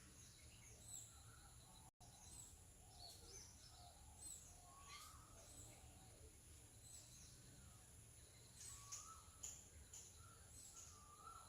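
Faint chirps of small birds: many short, high calls scattered throughout, several of them quickly falling in pitch, over a low steady background hum.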